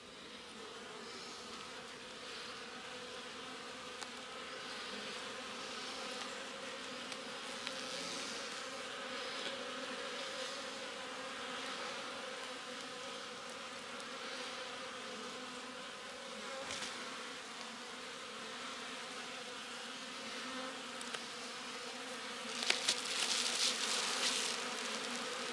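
Honeybees of a strong overwintered colony humming steadily from an opened hive. Near the end, a few seconds of scraping and knocking clicks join in.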